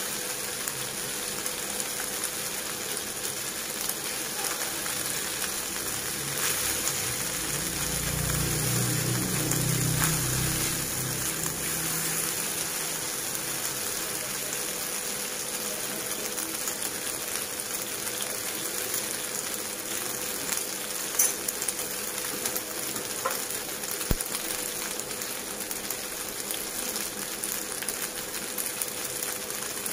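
Macaroni and diced vegetables sizzling steadily in a frying pan, with a low rumble swelling about a third of the way in and a couple of short clicks past the middle.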